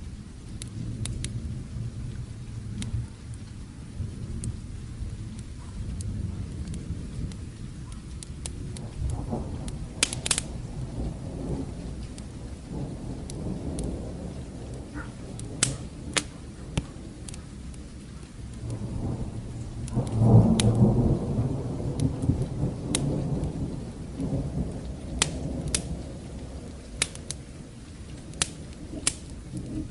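Steady rain with distant thunder rolling twice: a low rumble a third of the way in and a longer, louder roll about twenty seconds in. Sharp pops of a crackling wood fire are scattered throughout.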